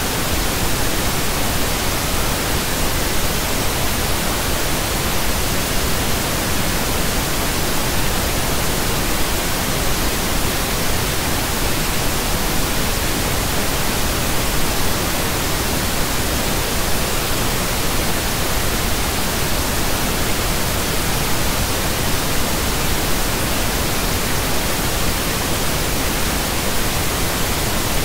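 Pink noise: a steady, unchanging hiss spread evenly across the whole range, with no tones or breaks.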